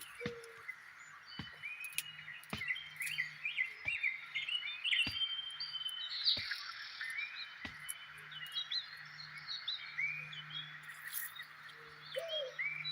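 Swamp ambience: many birds chirping and warbling over repeated short frog calls and a faint low drone. A few sharp knocks or clicks come at irregular moments.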